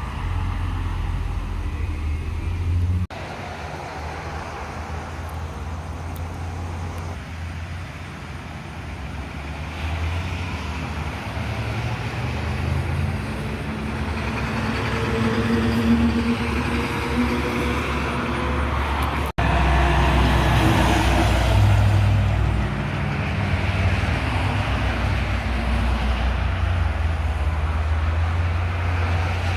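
Road traffic with heavy trucks going by: low engine running and tyre noise on the road. The sound breaks off and restarts abruptly twice, about three seconds in and a little past the middle.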